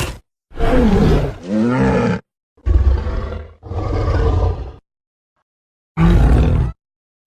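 Giant ape creature's roars and growls, King Kong-derived creature sound effects: about five separate calls of around a second each with short silences between, one near the start sliding down and up in pitch, and a last roar after a longer pause.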